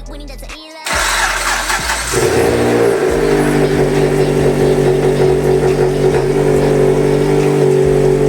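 Mitsubishi Lancer X's rebuilt 2.4-litre four-cylinder engine on sport camshafts starting for the first time after its overhaul: a loud burst about a second in, then it catches and runs at a steady idle.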